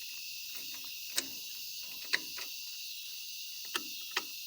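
Steady high-pitched insect chorus in the grass, with a handful of short sharp clicks scattered through it.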